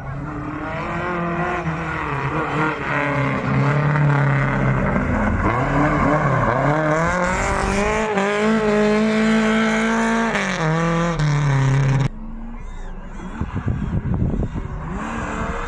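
Car engine revving hard, its pitch rising and falling repeatedly as the car is driven sideways through a tyre-marked course, with tyre squeal. The loud engine cuts off abruptly about twelve seconds in, leaving a quieter engine revving further off.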